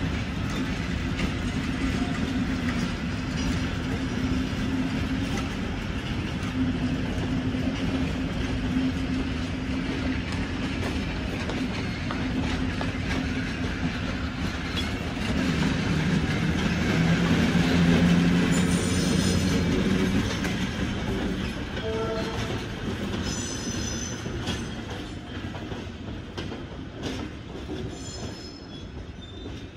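Tait wooden-bodied electric suburban train running along the rails with a steady motor hum and wheel clatter. It grows louder about halfway through, then fades as it draws away, with several short high wheel squeals in the second half.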